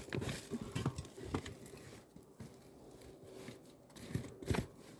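Irregular crunching and rustling close to the microphone, with several sharp crunches in the first second and half and again near the end.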